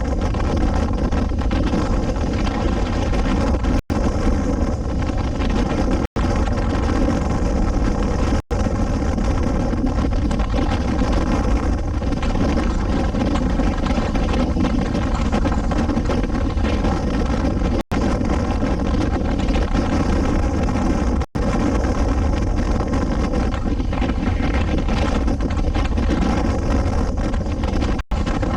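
Suzuki V-Strom 250SX single-cylinder engine running steadily while riding, under heavy wind noise on the microphone. The sound cuts out sharply for a split second about six times.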